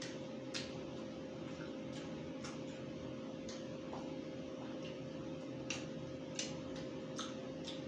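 Mouth sounds of someone chewing rotisserie chicken: sharp clicks and smacks at irregular intervals, about nine of them, over a steady background hum with a faint constant tone.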